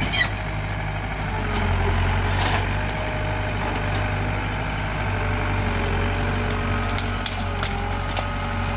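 A heavy machine's engine running steadily with a low hum, with one short click about seven seconds in.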